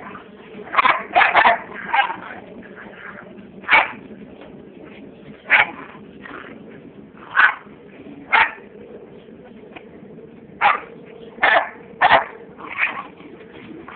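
Dogs barking in short, single barks at irregular gaps, about a dozen in all.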